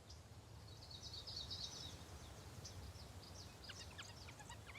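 Faint outdoor ambience: scattered short, high bird chirps over a low background rumble.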